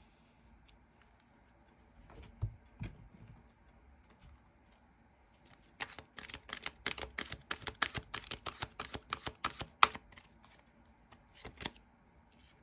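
Tarot cards being handled: two soft thumps, then a quick run of small sharp clicks lasting about four seconds, and two more clicks near the end.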